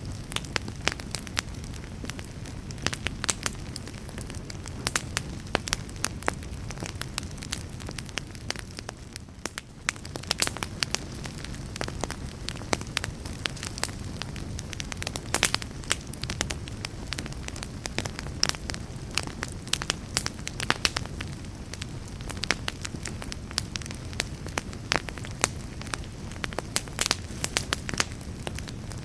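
Wood fire burning, with a steady low rumble and frequent sharp pops and crackles, dipping briefly about nine seconds in.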